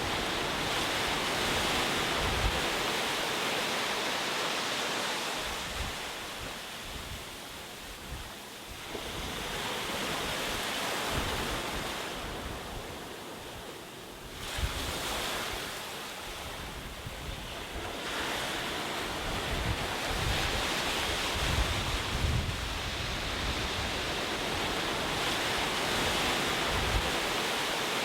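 Ocean waves breaking and washing up a shore, the surf swelling and ebbing every several seconds, with a sudden surge about halfway through.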